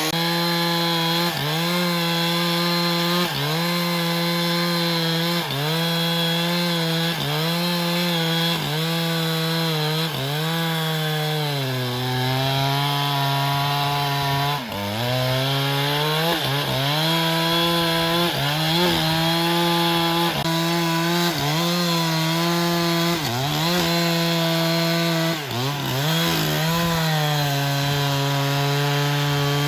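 Power saw's engine running as it cuts black teak, its pitch dipping briefly and recovering every second or two as the cut loads it, with a longer, deeper drop about twelve to fifteen seconds in.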